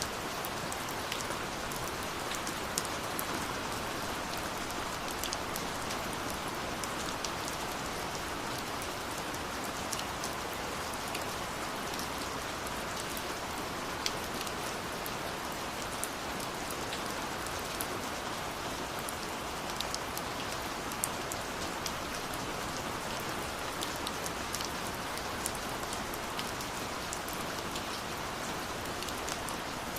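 Steady rushing of a waterfall, with scattered sharp crackles and pops of a burning wood fire over it.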